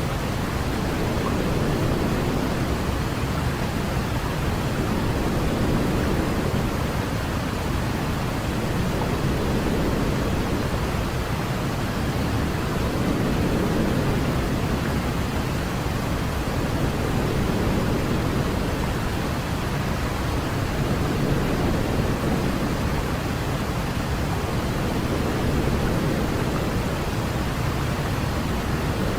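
Steady white-noise sleep sound for a baby: an even, continuous hiss weighted toward the low end, closer to pink noise, with faint slow swells every few seconds.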